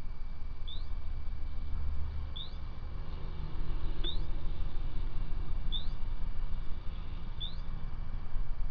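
A bird giving a short, high, rising chirp about every second and a half to two seconds, over a steady low rumble.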